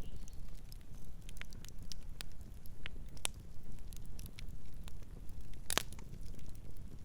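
Campfire burning and crackling: scattered sharp pops and snaps over a low steady rumble, with one louder pop about six seconds in.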